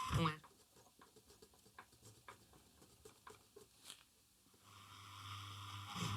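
Grundig Satellit 2100 radio tuned off station between broadcasts: faint scattered crackling clicks, a moment of silence about four seconds in, then static hiss with a low hum that rises near the end.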